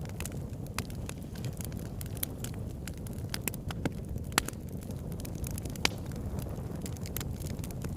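Crackling fire: irregular sharp crackles and pops, several a second, over a steady low rumble.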